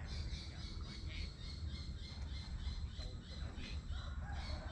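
Birds calling in the mangroves: a short high note repeated about three times a second, over a steady low rumble.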